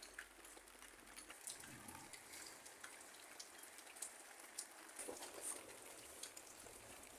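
Faint rain, with scattered drops ticking irregularly on a surface.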